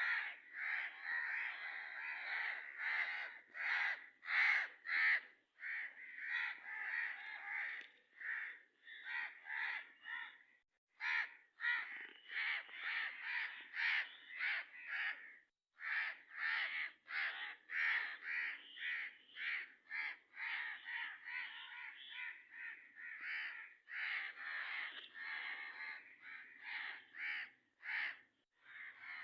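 Birds calling harshly over and over, two or three raspy calls a second, with brief pauses about 5, 10 and 15 seconds in.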